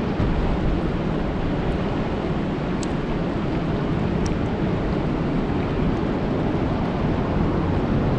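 Steady rain falling on a lake, a dense even rushing noise heavy in the low end, with a few faint sharp ticks of single drops.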